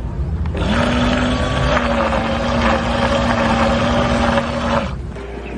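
Remote-control bait boat's twin electric motors running hard in the water, a steady whine over the hiss of the propellers. It starts about half a second in with a slight rise in pitch and cuts off near the end.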